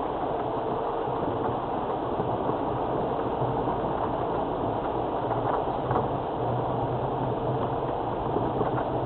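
Land Rover Freelander TD4 diesel running at a steady low drone while the vehicle drives along, heard from inside the cab.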